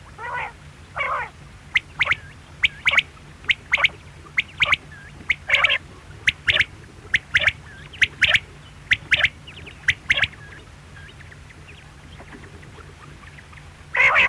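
Quail calling: a run of short, sharp, high notes, mostly in quick pairs about once a second, with two longer, rougher calls at the start and another near the end, over a low steady hum.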